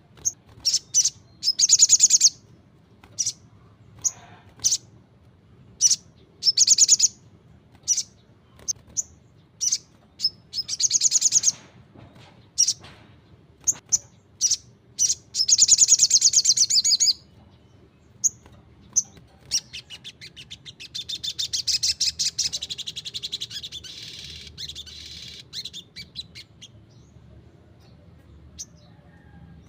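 Crimson sunbird singing: short, high, fast buzzy trills, one every second or so, then a longer trill about twenty seconds in that fades away.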